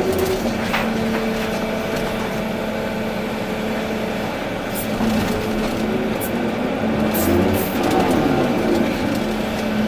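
Volvo EC380D excavator's diesel engine running steadily with hydraulic whine under load, the pitch wavering as the machine works, with a few light clicks and knocks.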